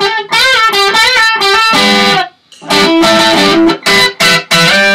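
Electric guitar playing improvised lead licks, with string bends and double stops, in short phrases broken by a brief pause about halfway through.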